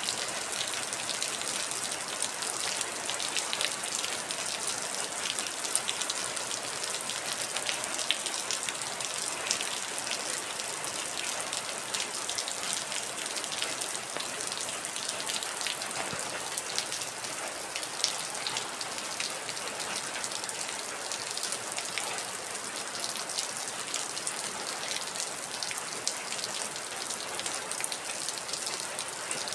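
Heavy rain falling steadily: a dense hiss of drops with many fine, sharp ticks of individual drops striking a surface.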